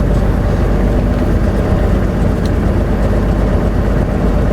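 Semi-truck engine and road noise heard inside the cab while driving: a steady, even rumble.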